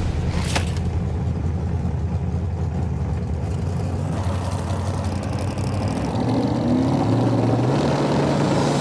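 Drag-racing car engines running with a loud, steady low drone, with a sharp click about half a second in. Around six and a half seconds in the engine pitch rises as it revs up, then holds higher.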